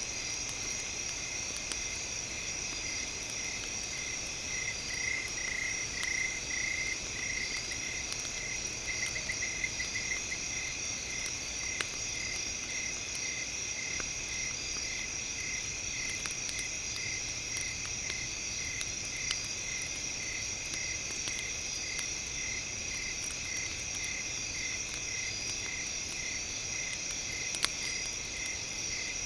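Campfire ambience with sparse sharp crackles over a steady, high-pitched chirring chorus. A regular pulsing note, about two pulses a second, runs under it and is strongest a few seconds in.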